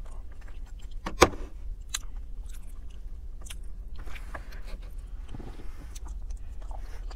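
Someone chewing and eating roasted chicken, with scattered small clicks and one sharp click about a second in, over a low steady hum.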